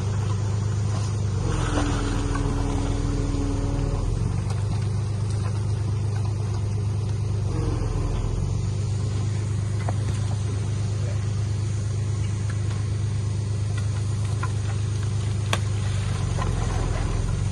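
Diesel engine of heavy earthmoving equipment running steadily with a low, even drone. A higher tone sounds for about two seconds a couple of seconds in.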